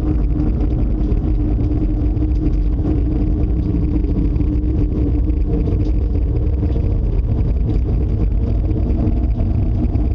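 Loud, steady low rumbling roar with a constant droning hum running through it: the unexplained tornado-like noise in the sky that the people inside feel is getting close.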